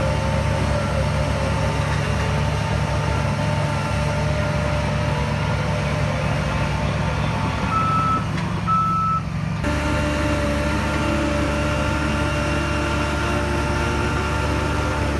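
Heavy diesel earth-moving machinery running steadily, with a reversing alarm beeping. Two short beeps stand out near the middle, and the engine sound changes abruptly a little later.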